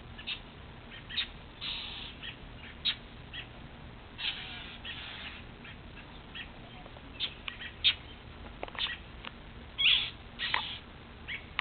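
A bird calling over and over with short, sharp chirps, mixed with a few longer, harsher calls, over a low steady background hum.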